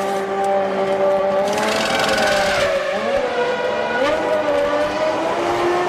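Formula One race car engines at high revs. The pitch dips sharply around three and four seconds in, as on downshifts or lifting off, then climbs again as the cars accelerate.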